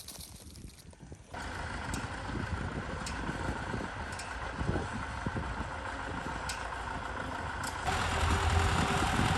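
Old tractor's engine running steadily. It comes in suddenly about a second in and grows louder and deeper near the end.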